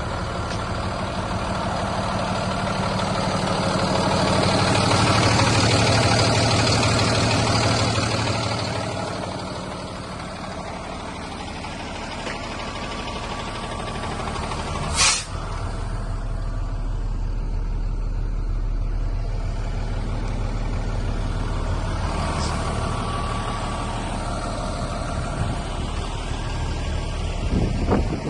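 2019 International DuraStar 4300 box truck's diesel engine running, louder for a few seconds in the first third and then settling to a steady idle. A single short, sharp sound cuts through about halfway.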